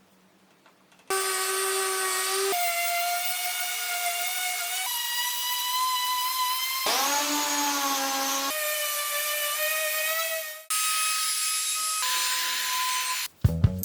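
Electric wood router running at high speed: a steady, loud whine that jumps to a different pitch several times, as cutting load and cuts change. Music with drums and plucked strings starts near the end.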